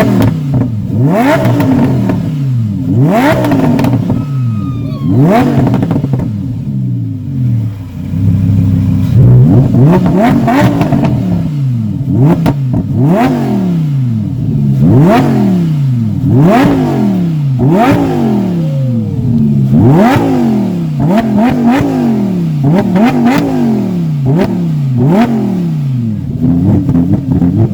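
A car engine revved over and over in quick throttle blips, about once a second. Each rev rises sharply and falls back, with a short steadier stretch near idle in the first third.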